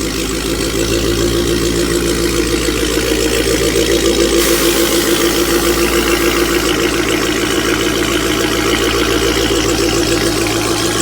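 Dodge Hellcat Redeye's supercharged 6.2-litre HEMI V8, tuned to about 1000 hp on E85, idling with an even, rhythmic pulse. A brighter hiss joins about four seconds in.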